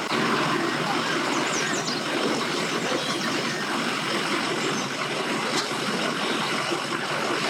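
Boat's outboard motor running steadily as the boat is powered onto its trailer, with water churning. Faint high chirps come briefly about a second and a half in.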